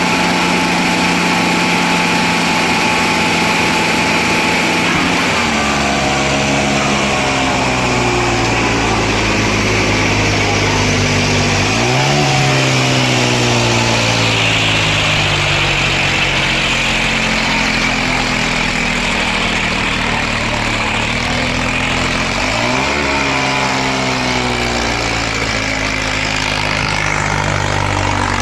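Diesel tractor engines pulling hard under load. About five seconds in the engine note drops as it bogs down, and twice more it revs up sharply and sags again, the pitch wavering as the tractors strain against each other.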